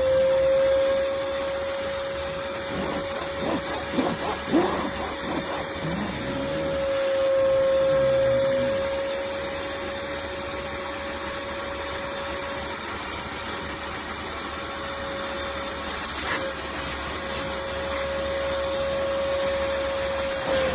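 Cecotec Conga CarpetClean 10000 carpet and upholstery cleaner running with a steady motor whine, with some uneven changes in the sound a few seconds in.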